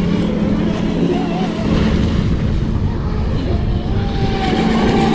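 Boat motors droning steadily, with a dense low rumble underneath, likely wind on the microphone.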